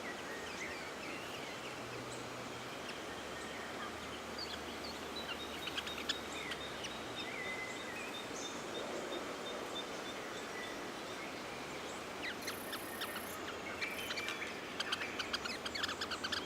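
Bush ambience: several small birds chirping and whistling here and there over a steady background hiss, with a run of rapid repeated chirps near the end.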